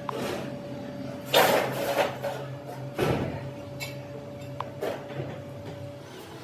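Workshop metalworking sounds: a machine hum with a thin steady tone under it, broken by several loud knocks and scrapes, the loudest about a second and a half in.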